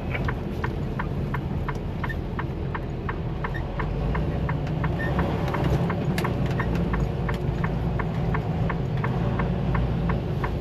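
Turn-signal indicator clicking steadily, about three clicks a second, over the low running drone of a truck's engine.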